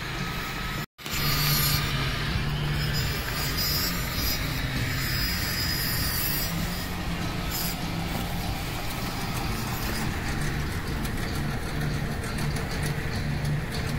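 A car engine idling steadily, with a low note that swells and fades unevenly.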